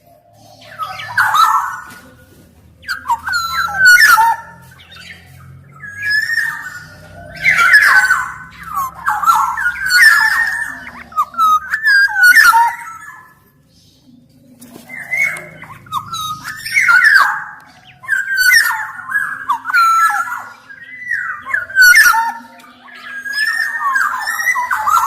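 Black-naped oriole singing: bursts of fluty whistled phrases, each a second or two long, repeated with short pauses between.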